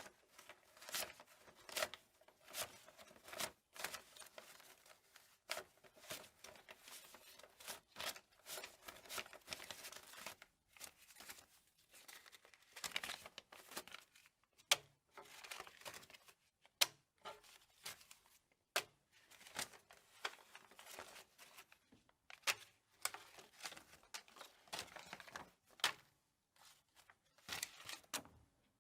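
Paper banknotes being counted by hand: a quiet, irregular run of quick dry flicks and rustles as note after note is thumbed off the stack, a few snapping sharper than the rest.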